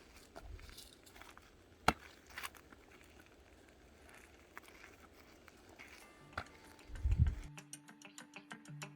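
Scattered faint crackles and clicks, with a sharper click about two seconds in and a low thump near the end. Plucked guitar music then starts in a steady rhythm.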